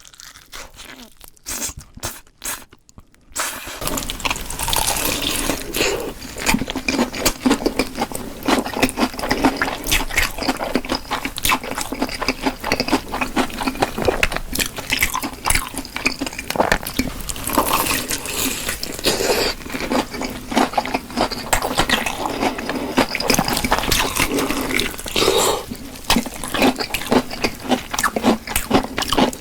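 Close-miked eating of spicy fried chicken: wet chewing, smacking and squishing, starting about three seconds in.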